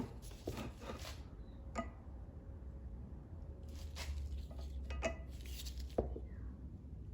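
A new greased axle seal being worked by hand onto a steel axle shaft: soft rubbing and handling noise with a few sharp metallic clicks, over a steady low hum.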